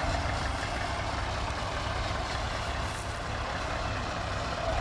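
Tractor diesel engine running steadily, with a low pulsing rumble under a broad noisy background.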